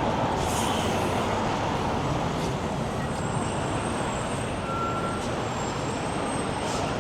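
Steady rumble of road traffic with heavy vehicles, with a short hiss about half a second in and a faint brief tone around five seconds.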